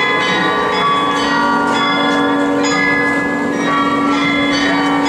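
Several large church bells ringing together, their strokes overlapping in an unbroken peal, with a low hum tone sustained beneath the higher strikes.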